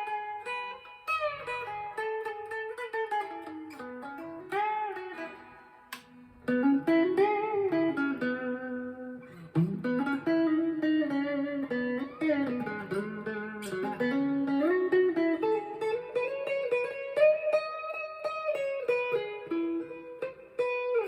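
Harley Benton SC-DLX electric guitar, coil-split and played through a Boss Katana MKII amp, playing a clean single-note melodic line with many string bends, dialled in to imitate a Stratocaster tone.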